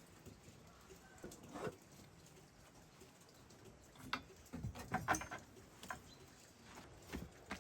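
Scattered soft knocks and clicks, irregular and clustered about four to five seconds in.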